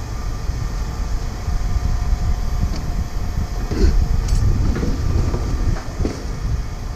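Heavy low rumble of engines and machinery, with a few short knocks of scrap metal being handled, one a little before the middle and one near the end.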